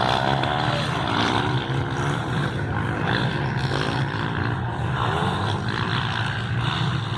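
Motocross bike engines revving as they pass, their pitch rising and falling over a steady low drone.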